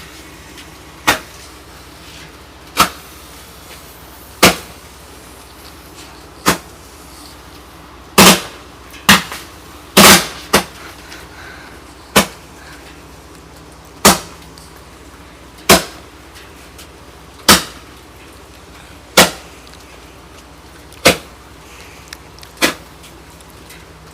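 Consumer fireworks going off in a series of sharp bangs, about one every one and a half to two seconds, with a quicker run of bangs near the middle.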